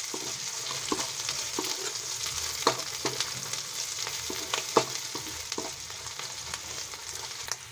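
Sliced onions and green chillies sizzling in hot oil in a kadhai, stirred with a metal spoon that scrapes and taps against the pan now and then.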